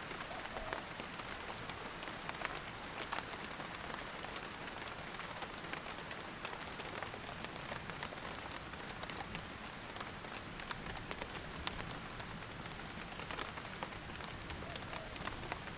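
Steady rain falling on a surface, a continuous hiss with many individual drops ticking and splatting sharply through it.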